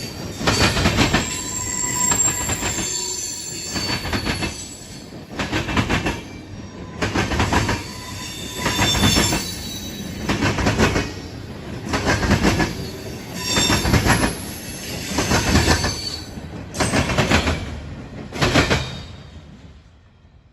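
A train's cars rolling past, the wheels banging over the rail joints in a regular beat about every one and a half to two seconds, with a thin metallic wheel squeal. The sound fades away near the end.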